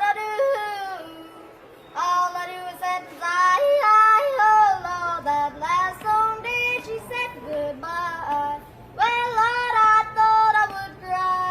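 A child yodeling a country song unaccompanied, the voice flipping abruptly between low and high notes. It comes in sung phrases, with short breaths about a second in and again shortly before nine seconds.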